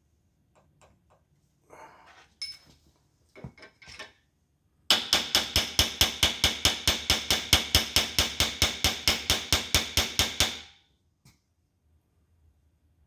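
A run of rapid, even hammer blows on steel, about five a second for some six seconds, each one ringing. A few lighter metal clinks and taps come first.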